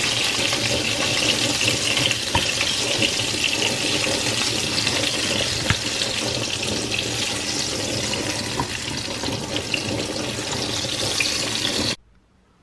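Meat and pepper skewers sizzling in hot oil in a frying pan: a steady hiss with small crackles, cut off suddenly near the end.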